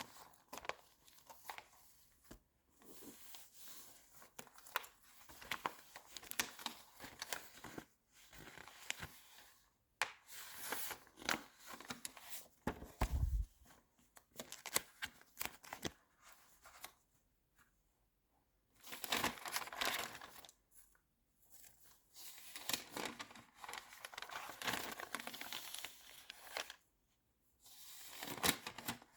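Magazine pages being turned and handled close to the microphone: paper rustling and crinkling in bursts, with short pauses between turns. A brief dull bump about thirteen seconds in.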